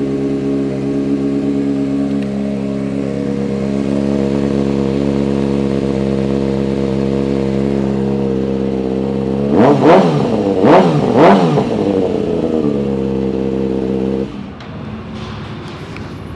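2012 Kawasaki ZX-6R inline-four sport bike engine with a Two Brothers aftermarket exhaust, idling steadily. About ten seconds in it is revved three times in quick succession, then drops back to idle and is switched off near the end.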